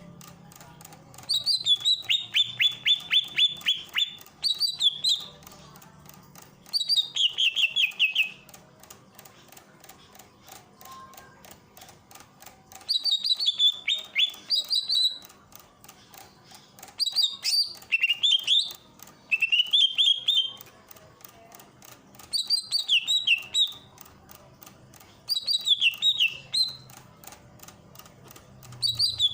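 Greater green leafbird (cucak ijo) singing in short, loud phrases of quick whistled notes, repeated every few seconds. Near the start one phrase is a rapid trill of about a dozen notes.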